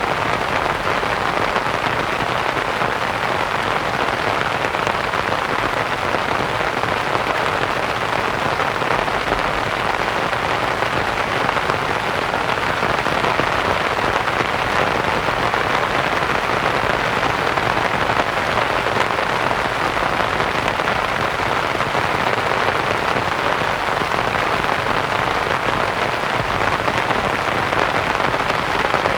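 Rain pattering steadily on a canvas tent, mixed with a soft white-noise hiss.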